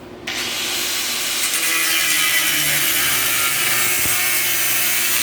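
Angle grinder cutting into steel, starting suddenly about a quarter second in and running steadily as a loud, hissing, high grind.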